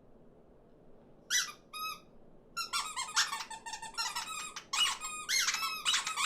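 Squeaky, high-pitched chirping voices of cartoon small birds: two short squeaks a little over a second in, then a whole flock of them chattering over one another from about halfway through.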